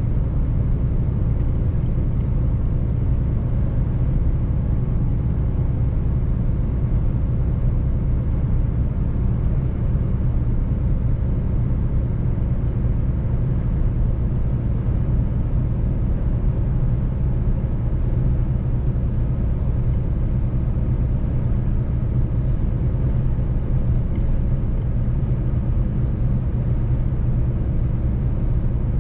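Mercedes-Benz truck's diesel engine running at a steady cruising speed with road rumble: a low, even drone that holds one pitch, with no gear changes or revving.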